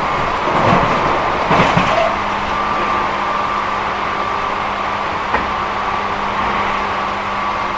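Tobu 8000-series electric train running at a steady speed: an even rolling noise with steady whining tones. A cluster of knocks comes between about half a second and two seconds in, and one sharp click a little after five seconds.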